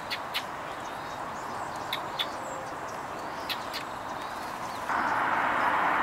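A handful of short, faint, high bird chips over a steady outdoor background hiss; about five seconds in the background rush steps up louder.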